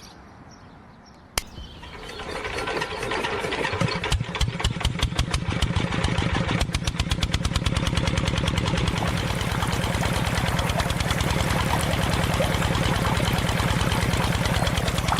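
Small engine of a DIY mini tractor starting up: a sharp click, then it catches and builds to a rapid, even firing rhythm, running steadily from about halfway in.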